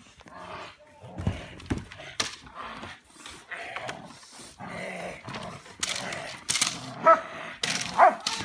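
Belgian Malinois barking in short, sharp, separate barks during bite work, with two dull thumps a little over a second in.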